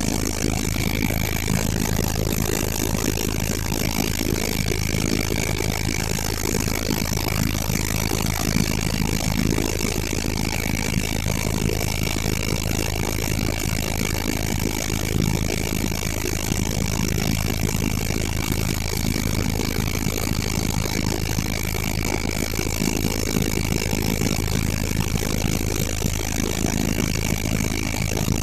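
Helicopter running steadily: a low drone with a constant high whine over it, unchanging throughout.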